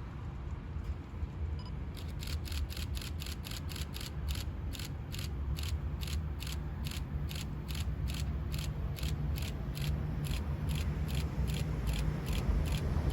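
Level crossing warning bell ringing in quick even strikes, close to three a second, starting about two seconds in, over a low rumble that slowly grows louder as a train approaches.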